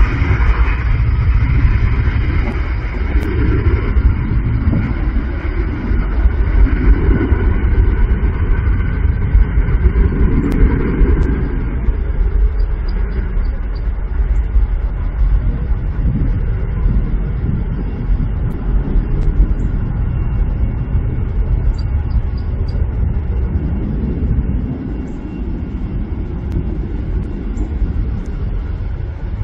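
Jet airliner engines heard close by: a deep, loud rumble with a high whine that fades over the first dozen seconds, easing a little near the end.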